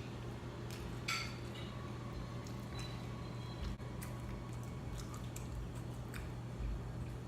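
Close-miked chewing of a crisp fried egg roll: scattered sharp crunches and wet mouth sounds, the loudest crunch about a second in, over a steady low hum.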